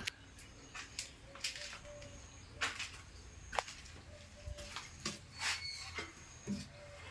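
Pet parrot making scattered soft chirps and clicks, short and spaced about a second apart.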